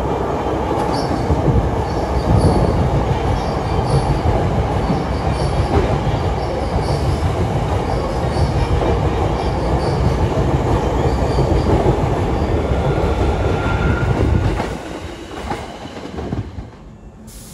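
Hankyu 7300-series electric train, a renewed set running out of service, passing through the station alongside the platform without stopping. A steady heavy rumble of wheels on rail, with short high squeaks recurring about every second. It drops away sharply about fourteen and a half seconds in.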